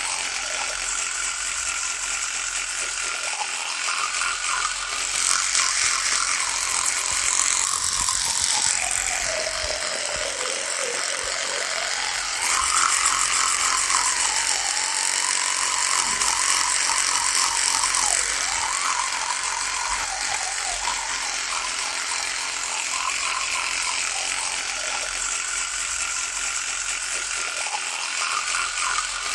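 Electric toothbrush buzzing steadily. Its pitch wavers, sags lower about ten seconds in, then climbs back, and the buzz grows a little louder for a few seconds after that.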